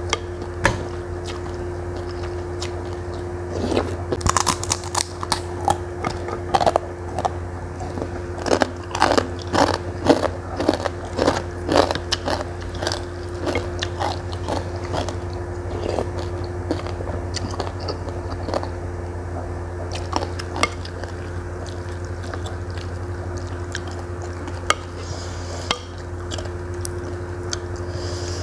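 Close-miked eating sounds of meatball soup with glass noodles: wet chewing and smacking of the mouth. They come thick and fast from about four seconds in and thin out in the last part, over a steady low hum.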